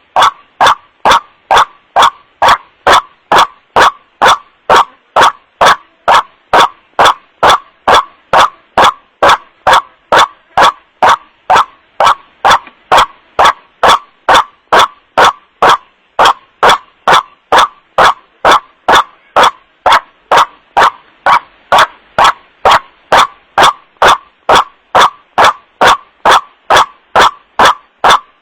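White-breasted waterhen (kuruak) call played as a bird lure: the same short 'wak' note repeated evenly about twice a second. It is amplified to the point of clipping, so each note sounds harsh and distorted.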